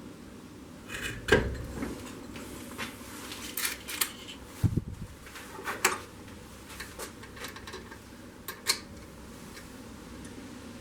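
Metal tools and parts being handled: a handful of separate clinks and knocks, one a low thud near the middle, over a steady low hum.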